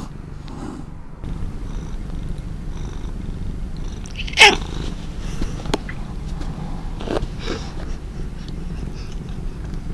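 Domestic cat purring steadily, a low continuous rumble. About halfway through a single brief, sharp sound breaks in, the loudest moment, with a couple of fainter short sounds a few seconds later.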